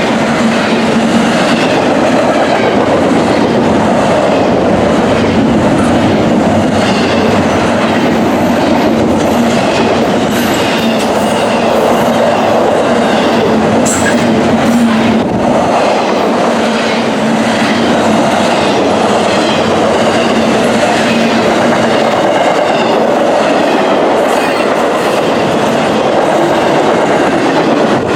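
BNSF "Z" intermodal freight train passing at speed: the cars' wheels run loud and steady on the rails, with a steady low hum underneath.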